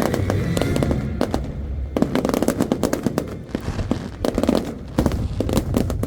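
Aerial fireworks going off in a dense barrage of bangs and crackles, many overlapping, with show music underneath.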